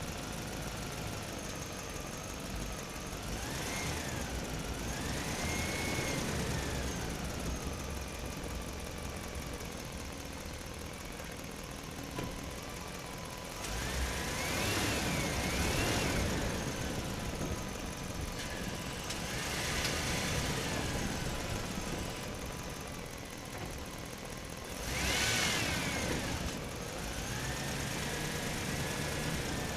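Radio-controlled toy excavator's small electric motors whining in repeated bouts as the arm and bucket work, each whine rising and falling in pitch.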